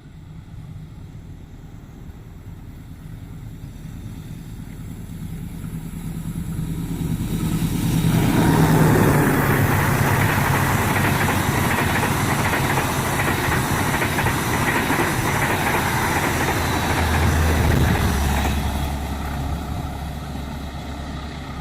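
A KAI CC206 diesel-electric locomotive and its passenger train passing at speed. The engine hum grows as it approaches, its note drops as it goes by about 8 seconds in, and loud rushing wheel and rail noise follows for about ten seconds before fading.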